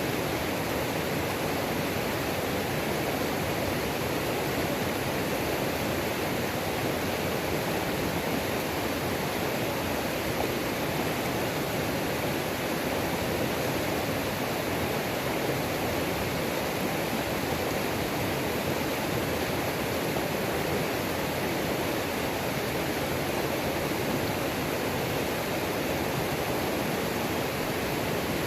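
Waterfall on a mountain creek, falling water making a steady, even rush of white noise.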